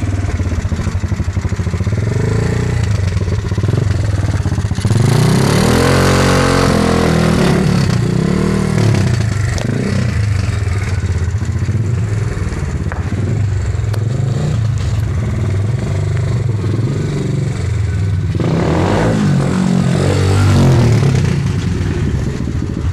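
Pit bike's small single-cylinder engine running and being revved hard. Its pitch climbs sharply about five seconds in and again near the end, with lower, uneven running between.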